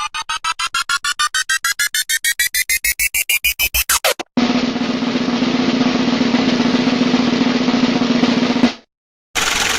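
Two sound-effect clips back to back. In the first, a rapid run of beats speeds up like a drum roll while a tone over it rises in pitch, for about four seconds. The second is a steady, noisy hum with a strong low drone that cuts off suddenly about nine seconds in.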